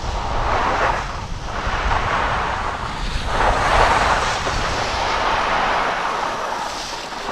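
Skis hissing and scraping over snow while skiing downhill at speed, swelling and easing in waves, with wind rumbling on the microphone.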